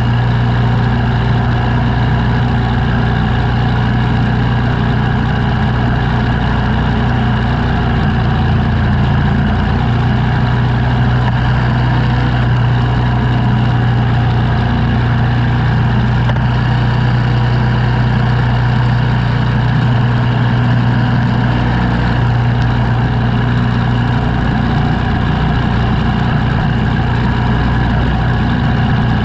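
An engine running at a steady speed throughout, a constant deep drone with no revving.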